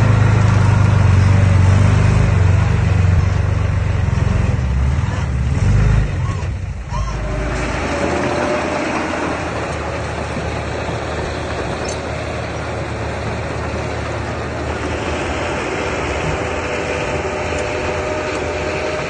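Diesel engine of heavy earthmoving machinery running, with a loud low drone that changes abruptly about six seconds in to a steadier, less bass-heavy engine noise.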